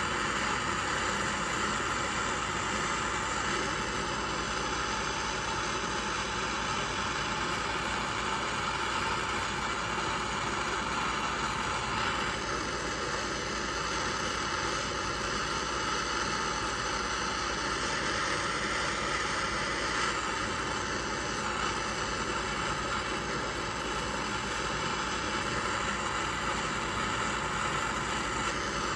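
Gas torch flame burning with a steady hiss, preheating a piece to drive off moisture before molten silver is poured into it.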